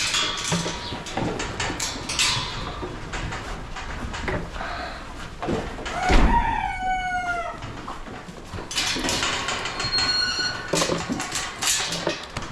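Barnyard chickens clucking, with scattered short calls and clicks and one long drawn-out call about six seconds in.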